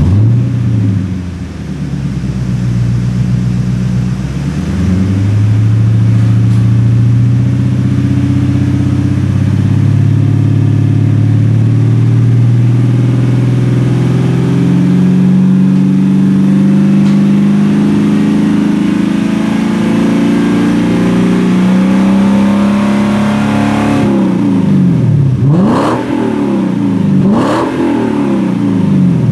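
Lexus LS600h V8 running through an aftermarket rear-section muffler with an expansion chamber, a fitting meant to make the exhaust louder. The engine note climbs slowly for most of the stretch, then the engine is revved sharply about three times near the end.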